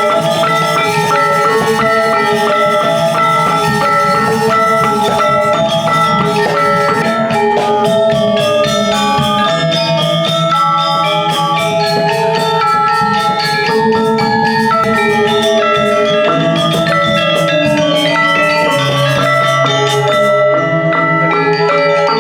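Balinese gamelan music: many struck metal mallet notes in quick, busy patterns over a low, steady bass, with drums.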